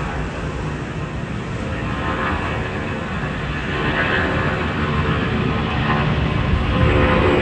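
Airplane engines, a steady loud rumble and roar that grows louder in the second half.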